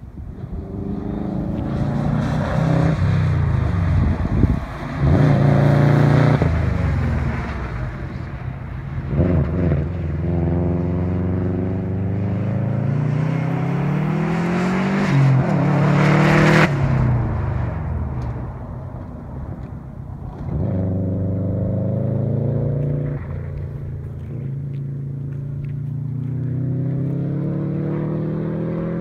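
Subaru WRX STI's turbocharged flat-four engine driven hard, its note climbing through the revs, dropping at each gear change and climbing again over and over. It is loudest about sixteen seconds in, where the note cuts off abruptly, then carries on with quieter runs.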